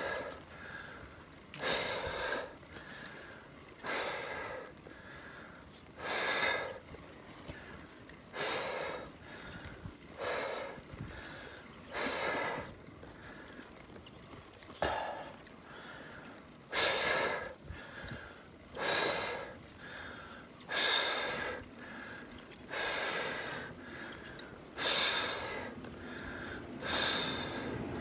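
A person breathing hard and audibly, in a steady rhythm of about one breath every two seconds; the breaths grow louder in the second half.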